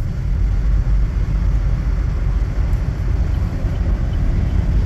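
Cabin noise of a 2024 Chevrolet Trax cruising at highway speed: a steady low rumble of road and engine noise that holds level without rising or falling.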